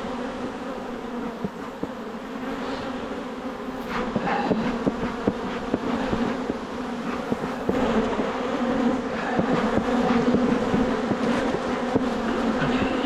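Many honeybees buzzing around an open hive: a dense, steady hum of wingbeats, with a few light knocks.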